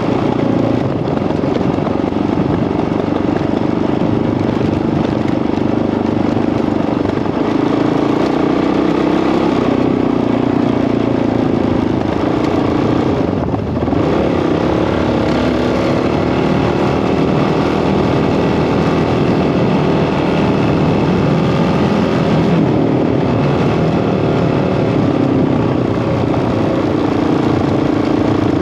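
Single-cylinder Honda CRF dirt bike engine running under way at fairly steady throttle. About halfway through the revs drop briefly, then the pitch rises as the throttle opens again.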